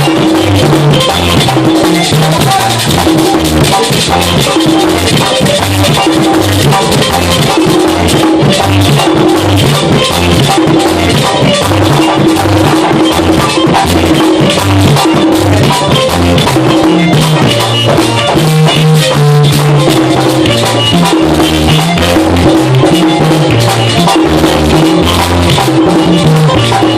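Merengue típico band playing an instrumental passage: güira scraping steadily over tambora drumming and a moving electric bass line.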